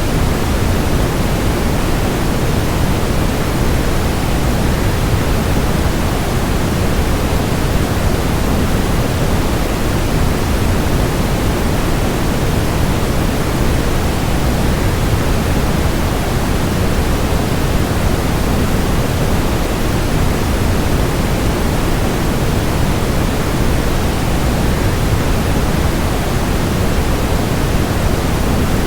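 Waterfall, a steady, unbroken rushing of falling water, heavy in the low end, like pink noise.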